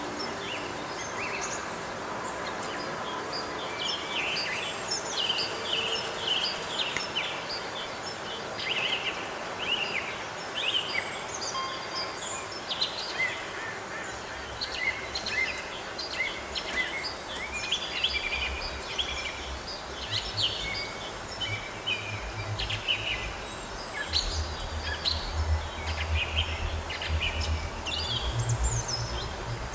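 Several songbirds singing and calling, many short chirps and trills overlapping. A low rumble comes in about halfway through and grows toward the end.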